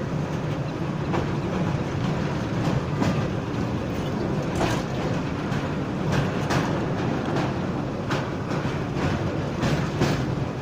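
Train running, heard from on board: a steady low rumble with irregular clicks of the wheels over the rail joints.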